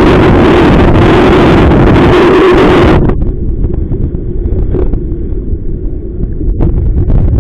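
Strong wind buffeting the microphone, loud for about three seconds, then dropping off suddenly to a lower rumble with a few short crackles.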